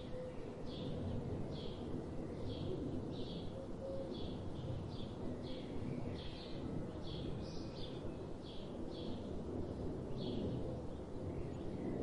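A bird calling over and over, short high calls about one to two a second, over a steady low background rumble of outdoor noise.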